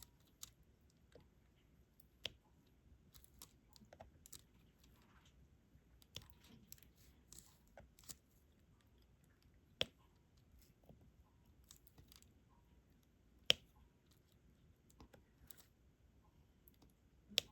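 Faint, scattered small plastic clicks and taps of a diamond-painting stylus picking up resin drills and pressing them onto the adhesive canvas, with two sharper taps about ten and thirteen seconds in.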